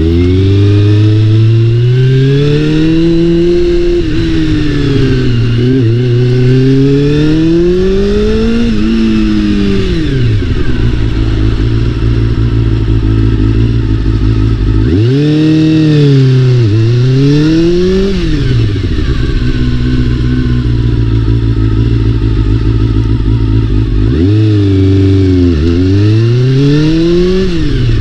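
Honda CBR400RR's inline-four engine revved up and down in several slow sweeps, settling back to a steady idle twice in between.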